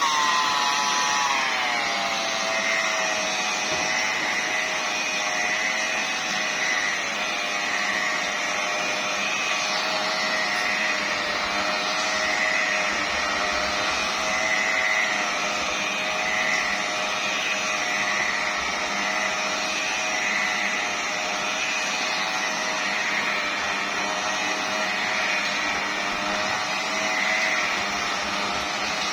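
Electric car-paint polishing machine running at its slow speed setting on the bonnet paint: a steady motor whine that drops in pitch over the first couple of seconds, then holds with a slight waver.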